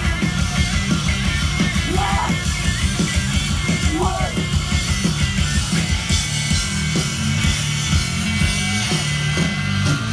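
Live hardcore punk band playing loud and fast, with heavy bass and rapid drumming.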